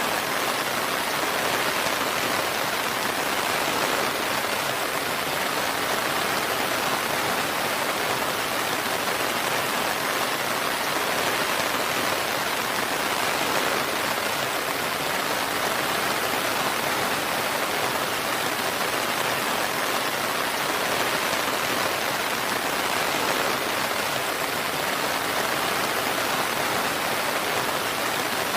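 Steady rain falling, an even rushing patter with no thunder or distinct drops.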